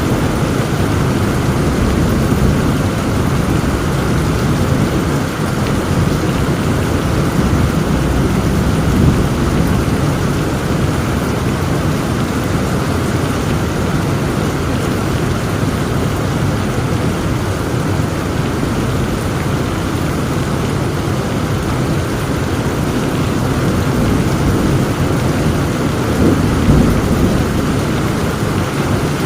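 Heavy rain pouring steadily under a continuous low rumble of thunder, swelling slightly a couple of times.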